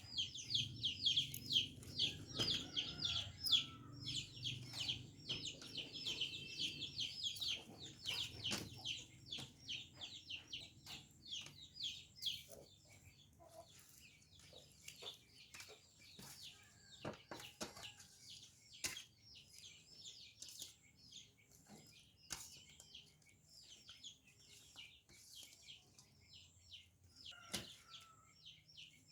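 Chicks cheeping fast and continuously in rapid high-pitched peeps, loudest for the first several seconds and fainter after. Scattered sharp knocks sound among them.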